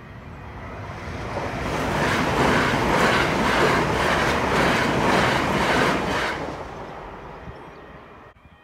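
Southern multiple-unit passenger train passing over a level crossing at speed. Its wheels on the rails swell to a loud rush with a regular clickety-clack of about two beats a second, then fade away.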